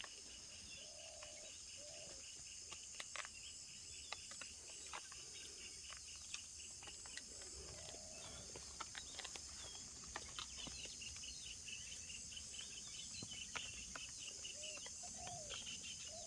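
Faint outdoor ambience of insects: a steady high-pitched drone with a rapid cricket-like chirping, scattered small sharp clicks, and a few short soft calls, about one second in, near the middle and near the end.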